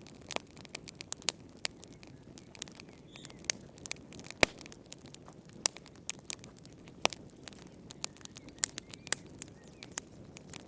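Wood fire in a fireplace crackling: irregular sharp pops and snaps of varying strength, several a second, over a soft low hiss, with the loudest pop about four and a half seconds in.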